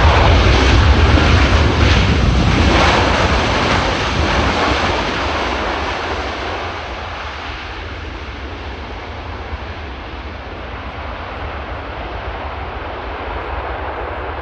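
Airbus A330-300 jet airliner landing, its jet engine noise loud at first and fading away over the next several seconds to a steady low rumble.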